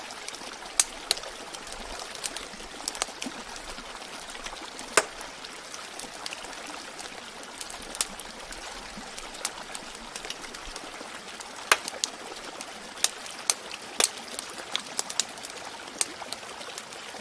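Steady trickling, streaming water with a wood fire crackling over it in sharp, irregular pops.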